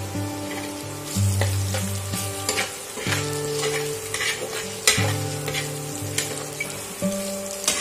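Chopped onions, cumin and crushed ginger-garlic sizzling in hot oil in a steel kadai while a spatula stirs and scrapes against the pan, with sharper scrapes every second or so. Low steady tones that change pitch about every second run underneath.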